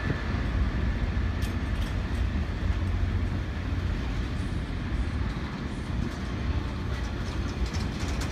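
Engineering train of ballast hopper wagons and on-track machines rolling past: a steady low rumble of steel wheels on rail, with a few light clicks.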